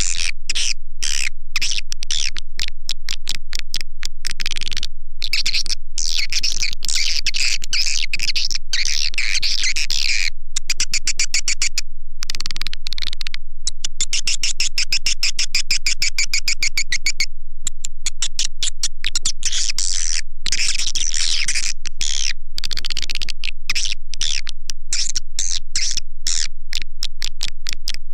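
Swiftlet call recording made to lure swiftlets into a nesting house: a dense, rapid stream of high chirps and twitters with several short breaks.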